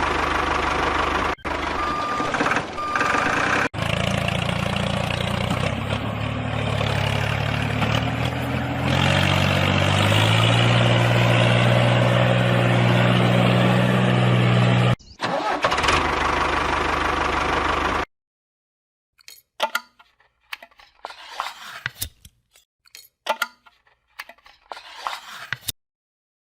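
Engine running with abrupt cuts, its pitch stepping up several times as it revs higher. It stops suddenly, and faint scattered clicks and knocks follow.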